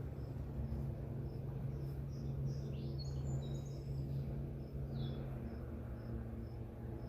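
Evening outdoor ambience: a cricket chirping steadily about twice a second, with a few short sweeping bird calls about three seconds in and again around five seconds, over a steady low hum.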